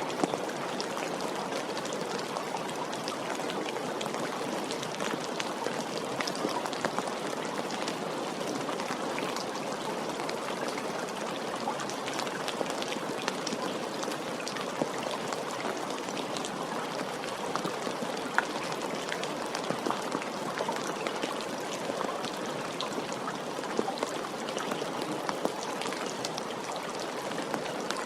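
Steady rain falling, a continuous hiss with many scattered individual drops ticking.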